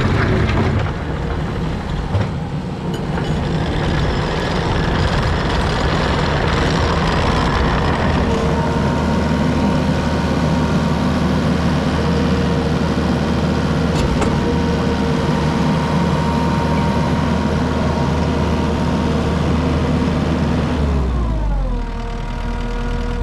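Takeuchi TL12 tracked skid steer's diesel engine running. It is throttled up about eight seconds in, holds a steady higher speed, then slows back down near the end.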